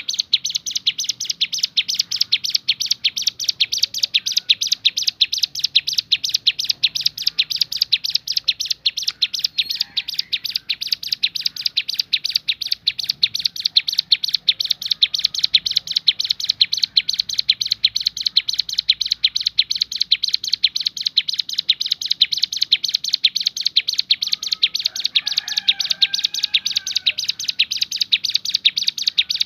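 Hill prinia (ciblek gunung) singing its rapid 'tembakan' song: an unbroken, fast run of sharp, high, evenly repeated notes, many each second, that starts abruptly and keeps going without pause.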